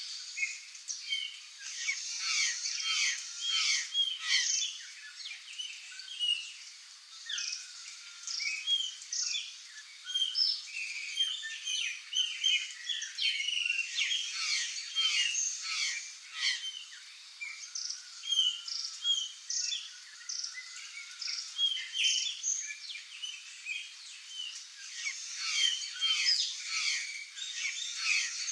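A flock of curl-crested jays calling over one another: a dense, continuous chatter of many short calls and chirps that overlap without pause.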